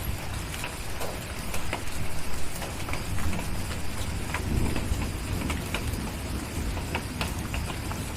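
Steady rain hiss with the scattered sharp pops and crackles of a wood fire, over a low thunder rumble that swells about two seconds in and again past the midpoint.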